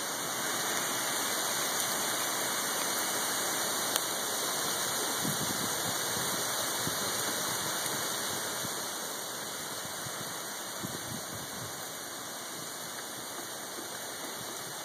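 Heavy hurricane rain from a passing rain band, a dense steady hiss of rain falling on the street, lawn and trees, easing a little after about nine seconds.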